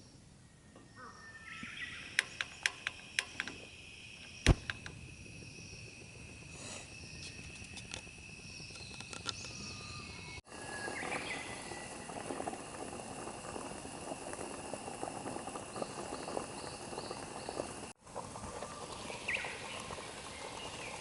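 Outdoor ambience with insects trilling steadily on one high note and a constant fine crackling. About two seconds in there is a quick run of sharp clicks, then a single loud snap; the sound cuts off abruptly twice.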